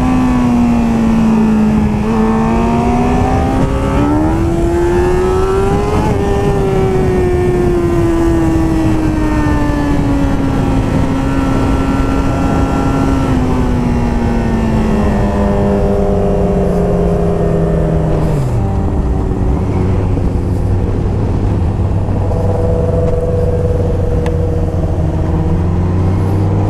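Motorcycle engine heard from the rider's helmet over rushing wind. The revs climb for the first few seconds, then fall away slowly for over ten seconds as the bike slows, and the engine settles to a low, steady note near the end.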